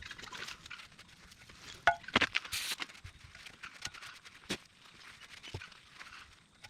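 Hand work on metal parts: irregular clinks and knocks, with a louder cluster of knocks and scraping about two seconds in and single knocks later.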